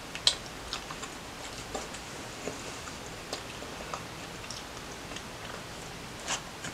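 Close-up chewing of a mouthful of sandwich, with the mouth closed: a few scattered soft, moist mouth clicks over a quiet background.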